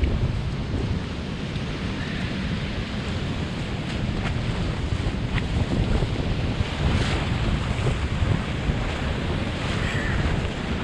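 Rough sea surf breaking and washing on the shore, a steady rush of noise, with wind buffeting the microphone.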